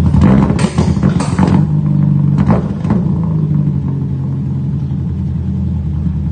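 Toyota 4A-GE 16-valve four-cylinder with individual throttle bodies running on a dyno. It gives several short louder bursts in the first three seconds, then settles into a steady idle. The engine is smoking heavily, and compression and leak-down tests found cylinders 2 and 3 bad, so it needs a rebuild.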